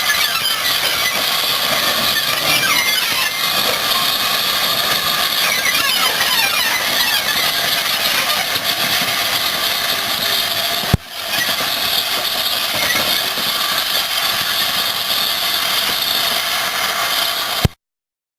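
GWR steam locomotive running: a steady hiss of steam with wavering high-pitched squealing over it. It breaks off briefly about eleven seconds in and stops abruptly near the end.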